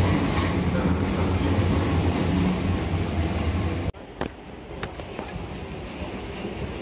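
Electric train at a station platform: a steady low rumble with a deep hum. About four seconds in it cuts off abruptly, leaving quieter station background with a few sharp clicks.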